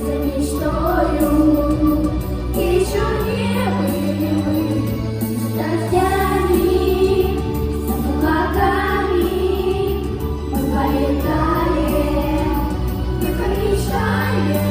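A pop song playing: sung vocal phrases, layered like a small choir, over sustained bass notes that change every few seconds.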